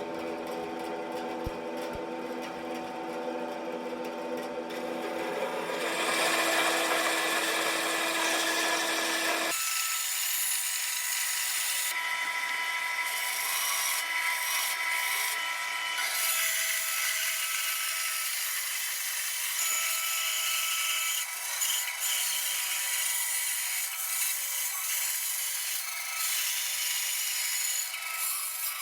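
Bandsaw running and cutting through a walnut gunstock blank: a steady motor hum, with the cutting noise of the blade in the wood growing louder about six seconds in. Near ten seconds the low hum drops away abruptly and a higher, steady sawing noise carries on.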